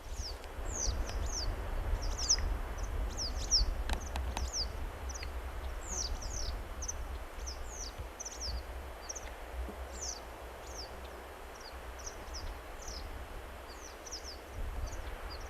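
A small bird calling over and over, short high notes that sweep downward, two or three a second, over a steady hiss of running water and a low rumble.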